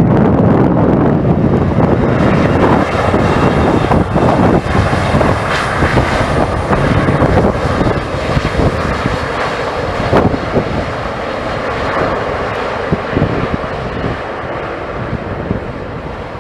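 Jet airliner engines passing, a broad steady rush that slowly fades, with wind buffeting the microphone.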